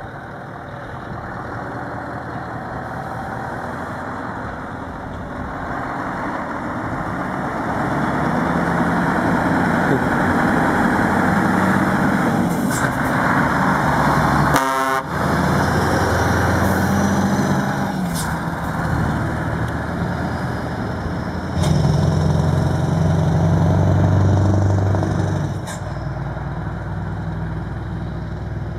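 Scania R500 V8 diesel truck engine pulling away under hard acceleration with its exhaust flap open, a deep, loud rumble. The engine rises through the gears, with a short break about halfway through and another drop in pitch and level near the end.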